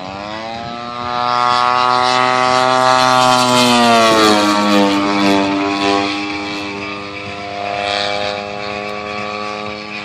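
Propeller and twin-cylinder two-stroke gas engine of a 35% scale RC Extra 300, a DA120, running. The pitch rises sharply at the start, holds high and loud, then falls smoothly about four seconds in and settles at a lower, steady pitch.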